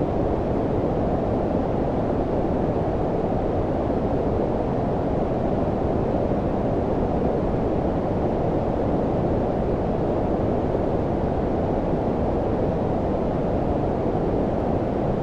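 Synthetic low-frequency white noise, brown-noise style: a steady, deep rushing hiss that stays even throughout, with most of its weight low and little high hiss.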